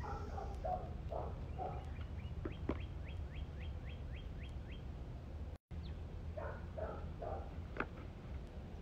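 A small bird singing a run of about ten quick, high, downward-sliding notes, about four a second, over a low steady rumble. The sound cuts out briefly a little past the middle.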